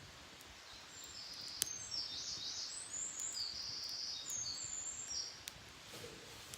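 A wild songbird singing, a run of quick, high warbling notes lasting about four seconds. A single sharp crack from the campfire comes near the start of the song.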